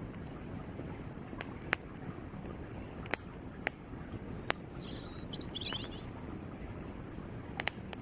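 Campfire crackling, with irregular sharp pops of burning firewood over the steady rush of a flowing creek. A small bird twitters in a brief run of high chirps in the middle.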